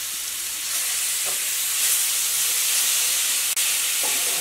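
Chopped tomatoes and spiced masala sizzling in hot oil in a stainless steel pan: a steady frying hiss that gets louder about a second in as the tomatoes are stirred in, with a couple of faint knocks from the spatula.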